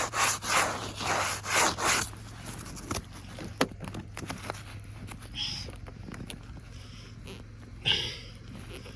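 Rhythmic crunching scrapes, about three a second, for the first two seconds. Then quieter scattered clicks and a short metallic scrape near the end as a key is worked in an iced-up car door lock that will not turn.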